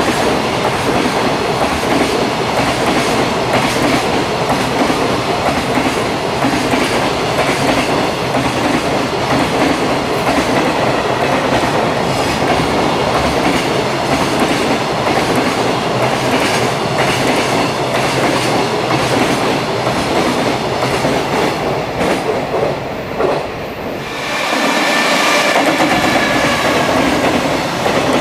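Loaded container flatcars of a freight train rolling past close by, a steady dense rumble with the clickety-clack of wheels over rail joints. After a short dip about 23 seconds in, another container train passes with a high steady wheel squeal over the rolling noise.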